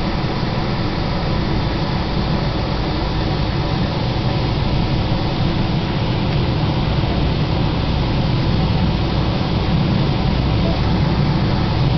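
Passenger train running through a station, heard from inside the carriage: a steady, loud low running noise of the train under way, without any distinct rail-joint clicks.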